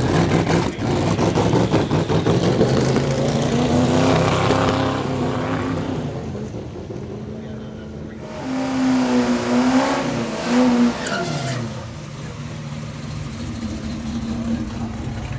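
Performance car engines running and revving, loud for the first few seconds, easing off, then a second loud burst of revving with the pitch rising and falling about eight to eleven seconds in, which stops abruptly.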